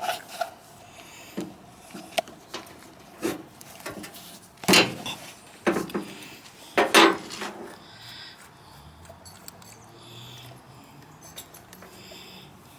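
Clicks and clinks of a small-engine carburetor being handled and taken apart by hand, with a few louder knocks in the first seven seconds and lighter ticks after.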